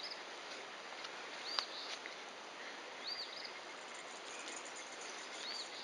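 A bird repeating a short, high, arching call about every second and a half over a steady outdoor hiss. A single sharp click comes about a second and a half in.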